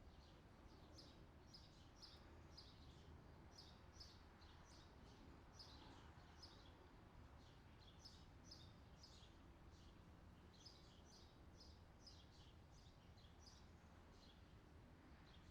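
Faint birds chirping: short, high chirps repeat steadily, with a brief lull about two-thirds of the way through, over a soft, steady background hiss.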